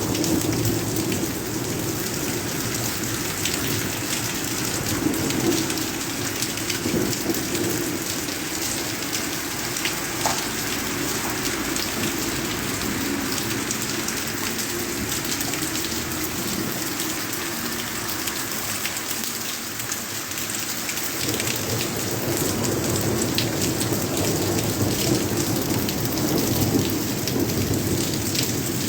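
Heavy rain falling steadily, with many individual drops ticking sharply on a hard surface. A low thunder rumble swells up early on and again in the second half.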